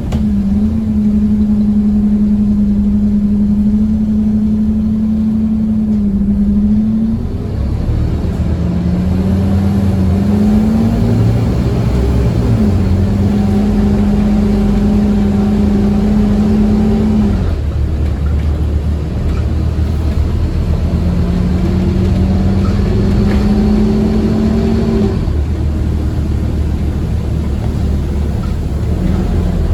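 Scania OmniCity bus heard from on board, running at speed with its engine under load. The engine note holds steady for several seconds, drops, then climbs again, about three times over, over a constant low rumble of road noise.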